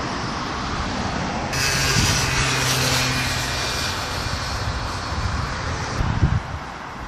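Road traffic noise, with a vehicle's tyre and engine noise swelling as it passes from about a second and a half in. Wind buffets the microphone near the end.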